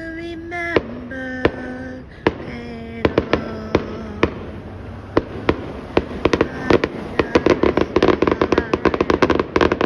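Fireworks going off: scattered sharp bangs at first, building about five seconds in to a rapid, dense barrage of reports.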